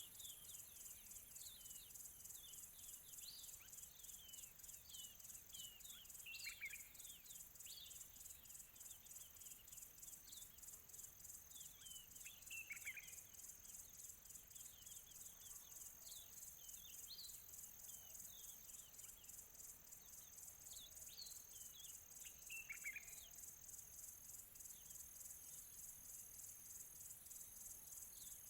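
Faint birds chirping, short downward-sweeping calls scattered every second or two, over a continuous high, rapidly pulsing insect trill.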